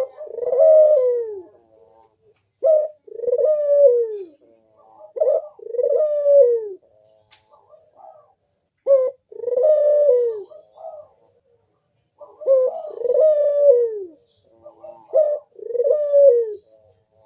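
Barbary dove (burung puter) giving its 'manggung' cooing song. It is made of six phrases, each a short note followed by a longer coo that falls in pitch, with short pauses between.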